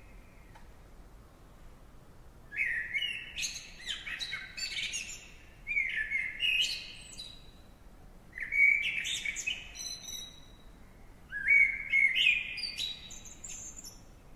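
A songbird singing: four phrases of quick, varied chirps and whistles, each a second or two long, with short pauses between them.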